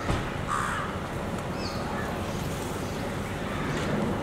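A short bird call about half a second in, against a steady outdoor background noise.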